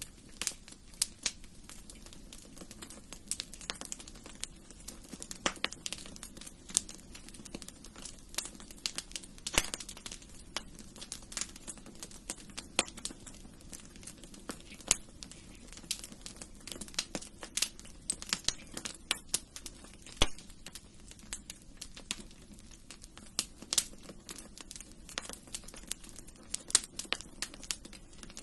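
Wood fire crackling in a fireplace: irregular sharp pops and snaps, a few louder than the rest, over a steady low hiss.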